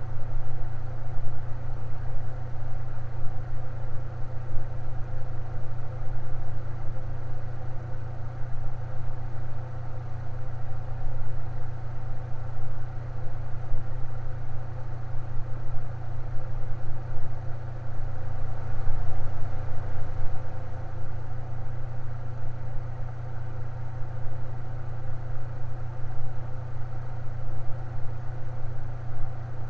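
Electric fan running steadily: an even low hum with fainter steady tones above it.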